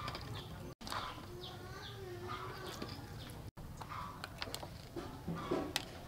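Birds chirping in a repeated series of short falling notes, with lower wavering calls like cooing, and a few sharp clicks near the end. The sound cuts out briefly twice.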